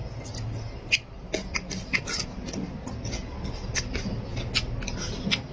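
Close-miked eating sounds: irregular wet clicks and lip smacks of chewing, over a low steady background hum.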